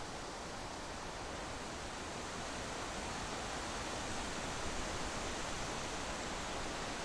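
Steady rushing noise of wind and road from a moving vehicle, even throughout, with no engine note standing out.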